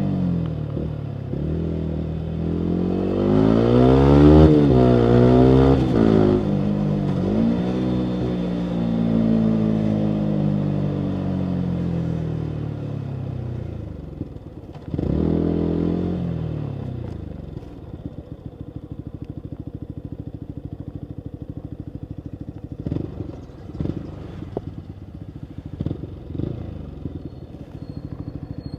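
Yamaha MT-125's single-cylinder four-stroke engine through a full Akrapovic exhaust. It revs up and winds back down in the first few seconds, does so again about halfway through, then settles to a steady, fast-pulsing idle, with a few short sharp sounds from the exhaust near the end.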